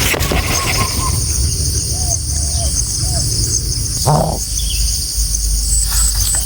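Steady high-pitched insect chorus, crickets, with a few short bird chirps around two seconds in and a brief noise about four seconds in.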